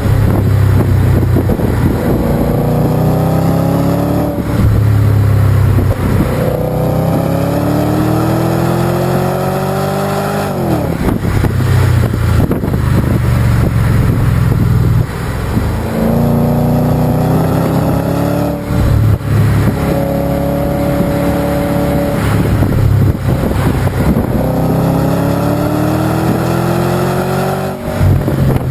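Volvo S80's 4.4-litre V8 through a Heico aftermarket exhaust, accelerating through the gears. The engine note climbs steadily in each gear and drops back sharply at each upshift, repeatedly.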